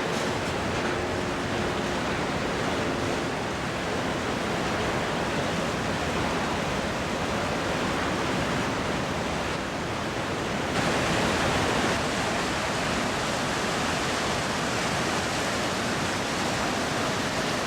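Iguazu Falls: a large waterfall's steady roar of water pouring over the cliff. It grows a little louder and brighter about eleven seconds in.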